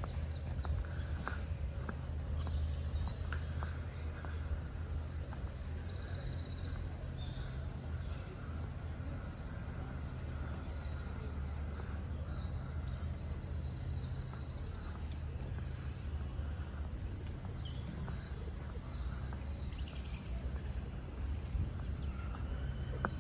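Small birds chirping and singing on and off, over a steady low rumble of outdoor background noise.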